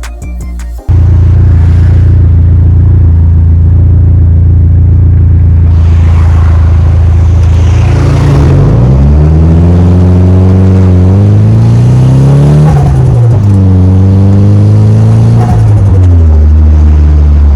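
Car engine running with a steady low drone, then its speed rising and falling about three times in the second half. Very loud and close to the microphone.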